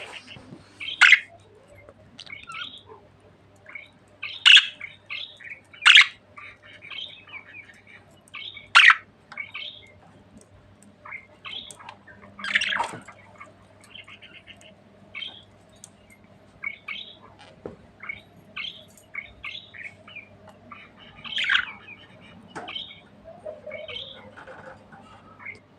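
Budgerigars chattering and twittering, with loud sharp chirps every few seconds over a faint steady hum.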